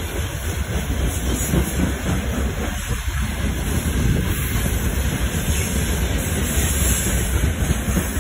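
Freight train of open gondola wagons rolling past close by, a steady loud rumble of wheels on the rails.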